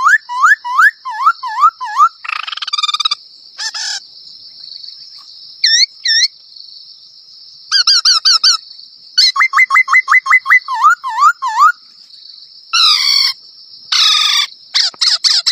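Songbird calling in runs of quick, upward-sweeping whistled notes, about four a second, with pauses between the runs and a few harsher notes. A steady high-pitched hum runs underneath.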